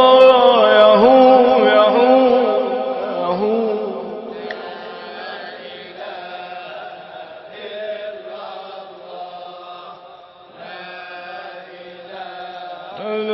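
A male Sufi munshid sings a long, wavering melismatic line in devotional chanting, which fades out about three or four seconds in. Quieter chanting and accompaniment carry on underneath. A strong held note comes back in at the very end.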